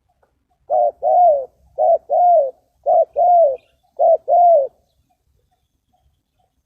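Spotted dove cooing: four phrases about one a second, each a short coo followed by a longer coo that rises and falls, then it stops.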